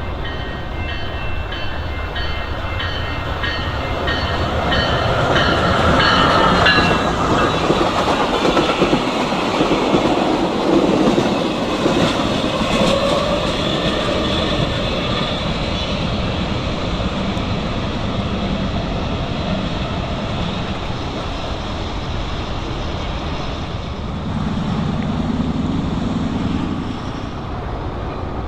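A train passing at speed, its wheels clicking over the rail joints. A pitch falls as it goes by, loudest a few seconds in.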